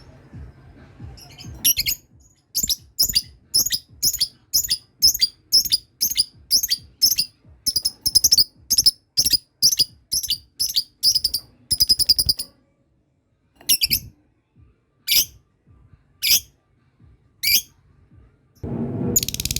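Lovebird giving its long chattering song (ngekek): a fast run of sharp, high calls, about two a second, that ends in a quick rattle, then slows to single calls about a second apart. Shortly before the end a loud, steady buzzing sound cuts in.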